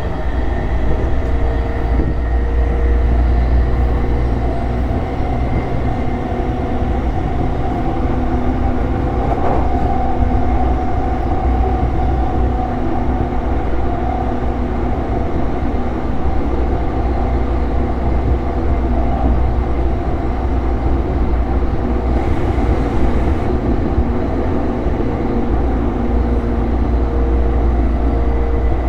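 JR East E233 series electric train heard from inside the passenger car, running steadily between stations: a loud, even low rumble of wheels on rail, with faint steady tones above it.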